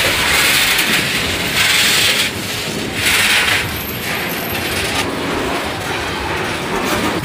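Freight train of hopper wagons passing close by, a continuous rumbling clatter of wheels on the rails. Swells of louder hiss come and go in the first few seconds.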